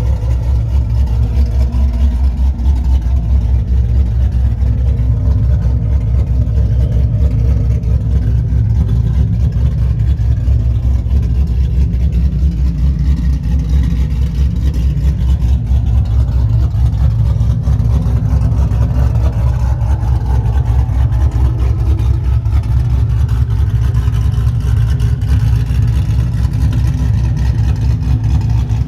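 Cammed 6.0 L V8 (LS3 top end, 227/231 cam) in a 2001 Camaro Z28 idling steadily through its exhaust during warm-up, with an uneven, choppy beat from the big cam.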